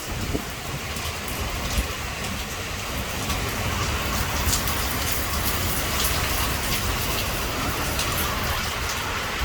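Heavy thunderstorm rain falling steadily, with many sharp drop ticks and a low rumble underneath.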